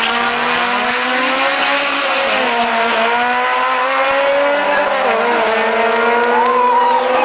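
Two race-prepared Honda Civics, one with a K20 four-cylinder, accelerating hard away from the start line at full throttle. Their engine notes climb and drop back at gear changes about two and a half and five seconds in.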